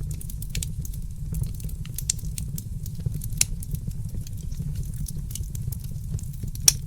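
Fireplace fire crackling: scattered sharp pops over a steady low rumble, with the loudest pop near the end.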